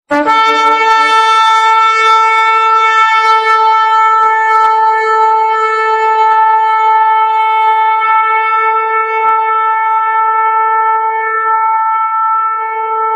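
A shofar (ram's horn) sounding one long, steady blast on a single note. It starts abruptly and wavers briefly near the end.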